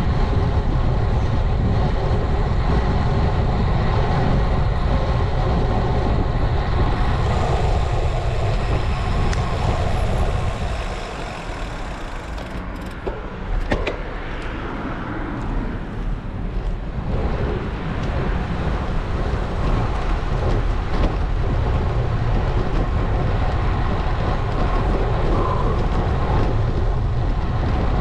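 Wind rushing over an action camera's microphone on a moving bicycle, mixed with road and traffic noise. It eases for a few seconds about midway, with a sharp click in the quieter stretch.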